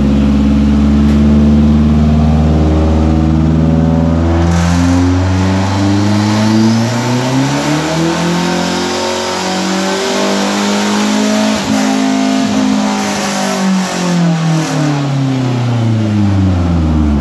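Straight-piped Mazdaspeed 3's turbocharged 2.3-litre four-cylinder exhaust, with the revs climbing steadily for about ten seconds and then falling away over the last five. A few sharp clicks come near the top, about twelve seconds in.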